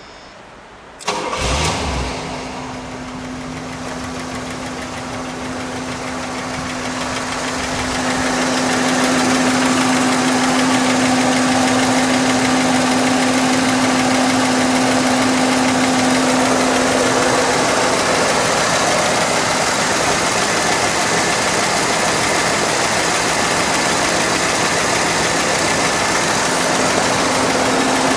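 A 1976 Cadillac Eldorado's 500 cubic inch V8 is started about a second in and settles into a steady idle with an even hum, growing louder over the next several seconds. It has a jet-engine sound to it.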